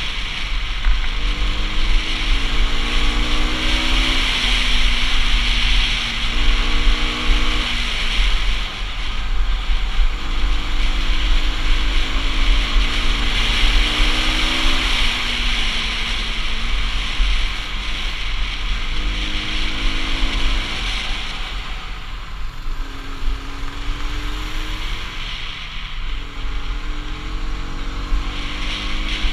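Bajaj Pulsar RS200's single-cylinder engine under way, its pitch rising as it pulls and then dropping back, over and over, as the bike climbs a winding road. Heavy wind rumble on the bike-mounted GoPro microphone runs underneath it all.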